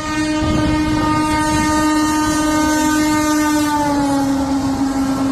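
Train horn sounding one long, steady note over the rumble of the moving train; its pitch drops slightly about four seconds in.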